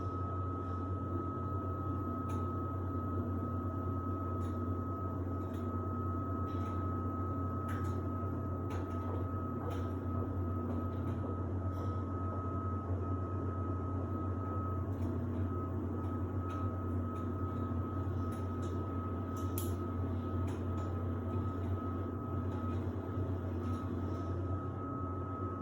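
Samsung WD70T4047CE washer-dryer running steadily, most likely in its drying phase: a constant low hum with a steady high whine on top and scattered light clicks.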